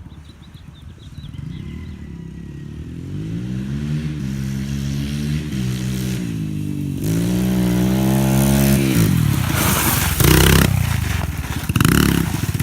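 Yamaha TT-R125 dirt bike's single-cylinder four-stroke engine accelerating. Its pitch climbs, drops at an upshift about seven seconds in, then climbs again, and the sound turns into rough, rushing noise for the last few seconds.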